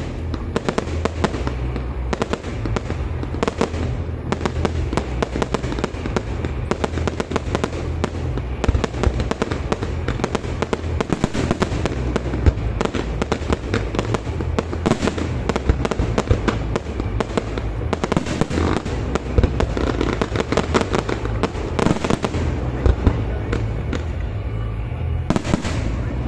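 Fireworks display: a dense, continuous run of bangs and crackling, with many sharp reports following close on one another.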